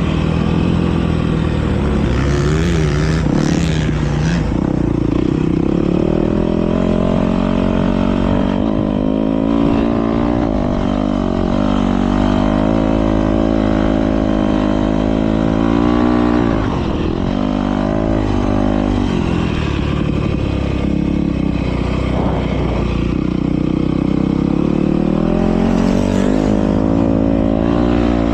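Motocross dirt bikes racing, their engines revving up and down as riders accelerate and shift, with several bikes overlapping at times.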